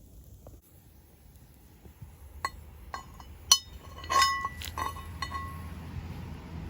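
Camp cookware clinking: about eight sharp metal-on-metal or glass strikes, each with a short ring, starting about two and a half seconds in and ending a little after five seconds, one strike much louder than the rest.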